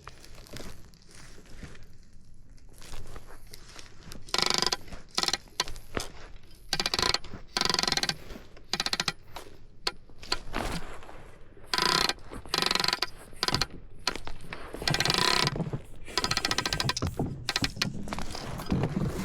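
Fishing reel clicking in repeated short bursts, a fast ratchet-like rattle, after a quiet first few seconds.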